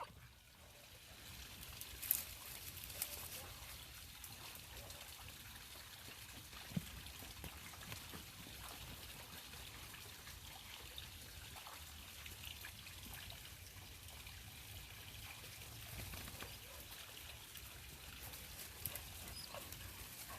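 Faint scratching and trickling of loose soil as dogs dig in the ground with their paws, with a few small knocks.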